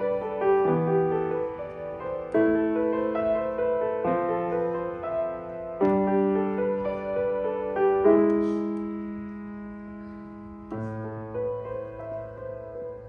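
Solo piano playing a slow piece, chords struck every second or two over held bass notes; after about eight seconds the playing grows softer, and a low chord is struck and left ringing near the end.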